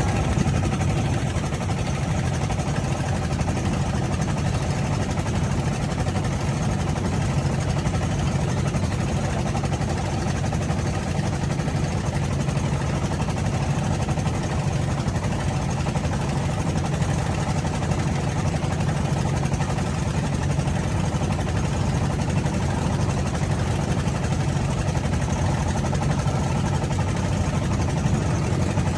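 A boat's engine running steadily, a constant low drone.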